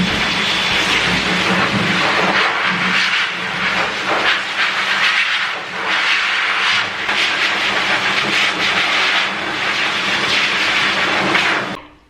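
Pet blow dryer blowing a steady, loud rush of air onto a wet dog's coat, the sound swelling and dipping as the nozzle moves; it cuts off near the end.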